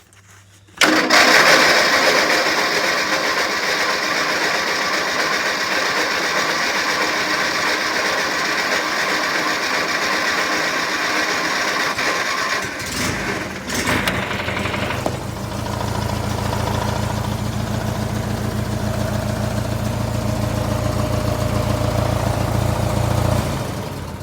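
Briggs & Stratton OHV small engine catching about a second in and running steadily, fast at first, then about halfway through settling into a deeper, lower running that fades near the end. It is the engine the owner says knocks when cold, which he puts down to a piston ring.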